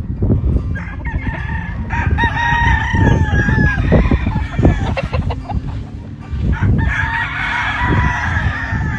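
Two long gamefowl rooster crows, one starting about a second in and another near the end, over a loud low rumble.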